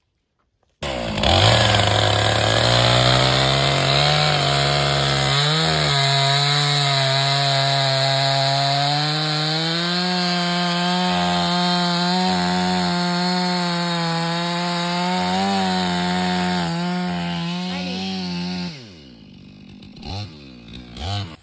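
Stihl chainsaw running at full throttle cutting firewood, starting abruptly about a second in and holding a high, steady pitch. Near the end the throttle is let off and the pitch falls away, followed by two short blips of throttle.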